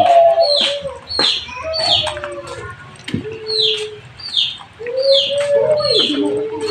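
A small bird chirping over and over in short, high, falling notes, about one or two a second. Low, drawn-out wavering sounds come and go under the chirps.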